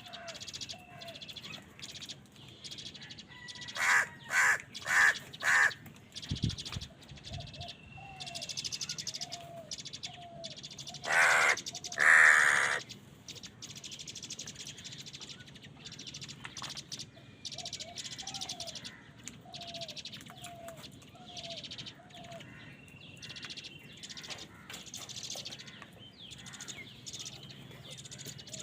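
Crows cawing: four loud caws in quick succession about four seconds in, then two longer, harsher caws around eleven to twelve seconds. A soft, short bird call repeats steadily in the background throughout.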